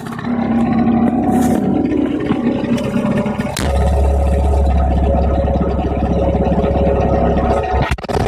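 Straight-piped engine exhaust running loud under load. The note turns deeper and heavier about three and a half seconds in, and dips briefly near the end.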